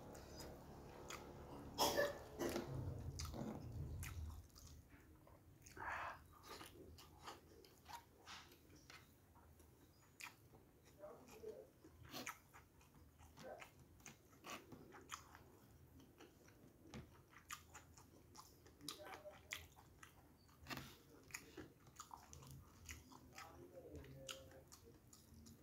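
Close-up mouth sounds of a person eating rice with tofu, eggplant and fried fish by hand: chewing and smacking with many small clicks, louder about two to four seconds in.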